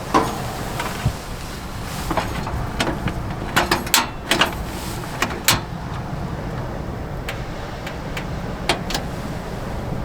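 Steady low rumble of strong wind, with a run of sharp clicks and knocks in the middle and two more near the end.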